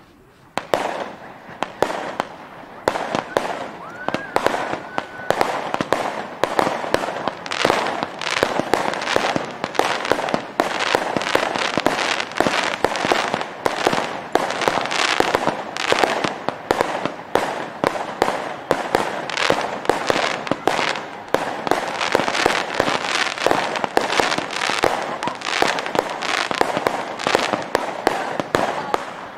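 Fireworks display with aerial shells going off in quick succession: a dense, continuous run of bangs and crackling, many bursts a second, starting about half a second in.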